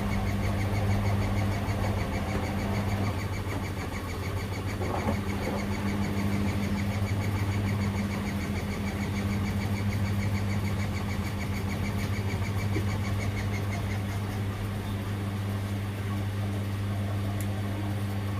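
Washing machines running mid-cycle with a steady low hum and a fast, even ticking rhythm that stops about 14 seconds in.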